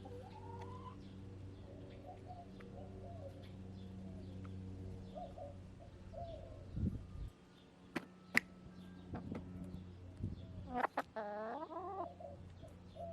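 Backyard hens clucking softly in low murmurs, with a louder drawn-out hen call near the end. Two sharp clicks about eight seconds in, over a steady low hum that drops out partway through.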